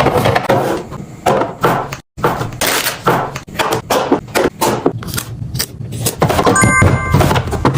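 Plastic containers, bottles and food packages knocked, clicked and set down one after another as a refrigerator is stocked, a steady run of short thunks and clatters. A short electronic beep sounds near the end.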